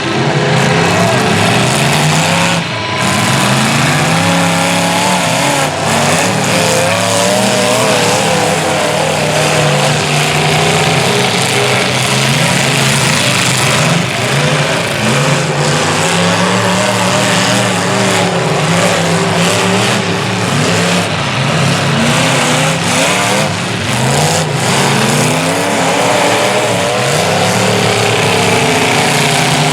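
Engines of several large race trucks running hard, revving up and down in overlapping pitches as they race around the track.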